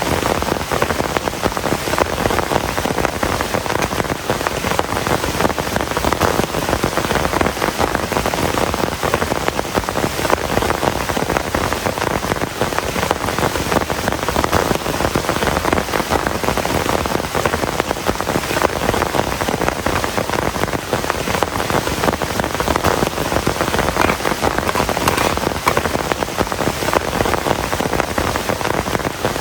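Heavy rain falling steadily, a dense patter of many drops with no letup.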